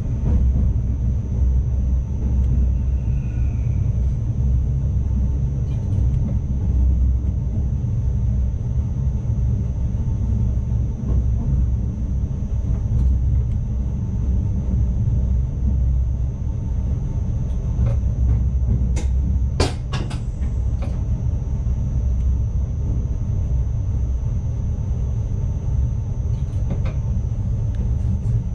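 ICMm intercity electric train running along the track, heard from the driver's cab: a steady low rumble with a thin high whine, and a few sharp clicks about two-thirds of the way through.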